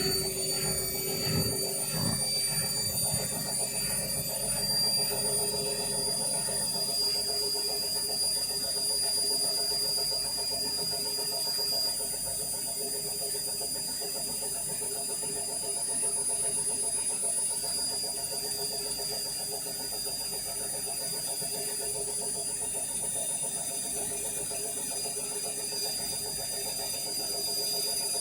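Indesit My Time washing machine running mid-cycle, ahead of the final rinse, with a steady high-pitched motor whine over a low churning noise. The noise is heavier in the first couple of seconds.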